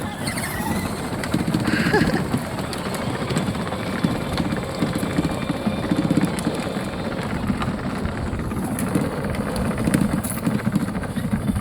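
Child's battery-powered ride-on toy truck driving along, its electric drive and plastic wheels giving a steady rumbling whir.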